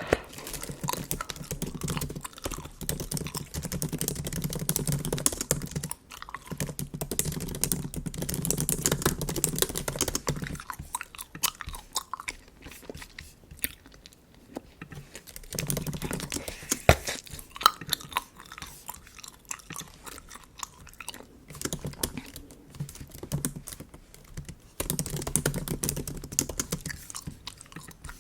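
Close-miked chewing of bubble gum, heavier in stretches of several seconds, with quick sharp clicks of MacBook keyboard typing through it.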